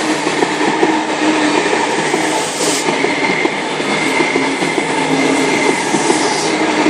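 Sydney Trains Tangara electric train passing through the station: a steady loud rumble and wheel clatter, with a steady whine of several tones held on top.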